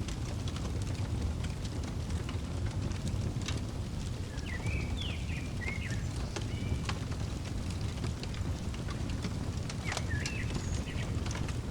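Fireplace crackling, with scattered sharp pops over a steady low rumble. Short bird chirps come in twice, about four to six seconds in and again around ten seconds in.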